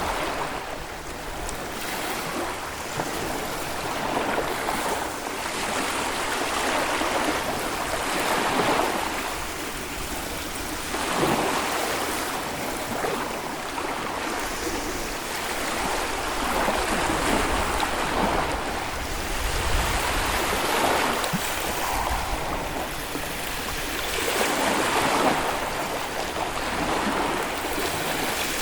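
Small Baltic Sea waves breaking and washing up a sandy beach, a continuous surf noise that swells and ebbs every few seconds. At times a low rumble of wind buffets the microphone.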